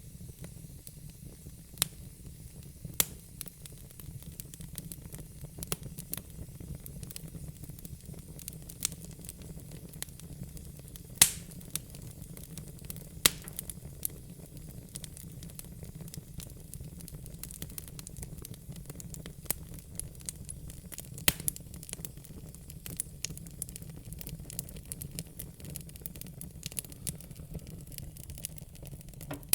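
Wood fire in a fire pit crackling, with a steady run of small snaps and a few louder pops, the loudest about eleven seconds in, over a steady low rumble.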